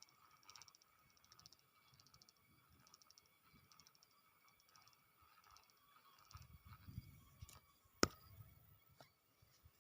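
Near silence: faint outdoor ambience with a soft high chirp repeating about every 0.7 seconds, a low rumble from about six seconds in, and one sharp click about eight seconds in.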